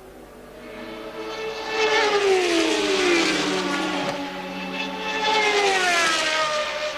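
Two 1983 Formula One cars passing one after the other, about three seconds apart, each high-revving engine note falling in pitch as it goes by.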